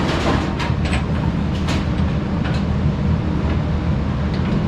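A few light clicks and knocks from furnace piping and sheet-metal parts being pushed into place in the first two seconds, over a steady low machine rumble.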